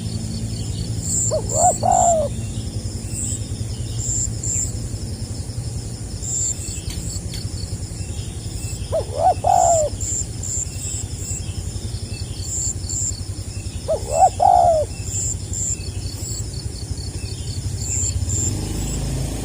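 Spotted dove (tekukur) cooing three times, several seconds apart, each a short broken phrase in the stuttering 'gagap' style. A steady high chirping and a low hum run underneath.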